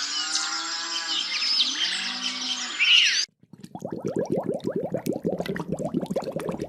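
Cattle lowing in a few long low calls beneath dense bird chirping. After an abrupt cut, a fast run of low pulsed animal calls follows, about eight a second.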